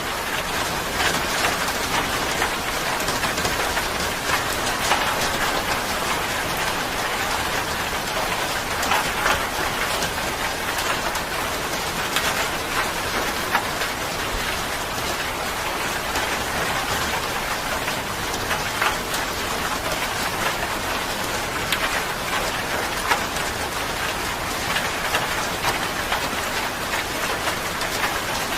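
Steady rain falling, with the patter of individual drops hitting a surface.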